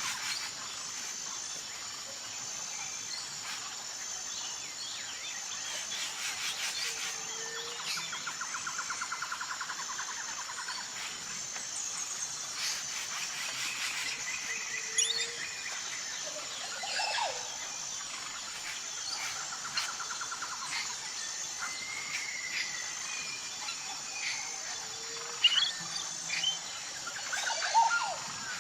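Tropical forest ambience: a steady high insect buzz with an even pulse, rapid pulsing trills coming and going, and scattered bird chirps and calls, with a short low call repeating every few seconds.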